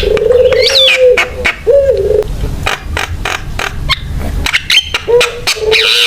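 Javan myna (jalak kebo) singing hard: a rapid run of sharp clicks and rattles mixed with short whistles that swoop up and down, over low drawn-out notes that come and go.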